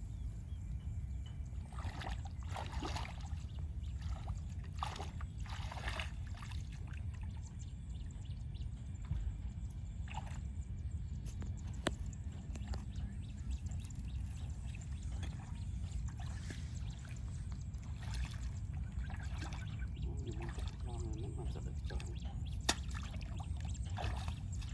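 Water sloshing and splashing in short, irregular bursts over a steady low rumble.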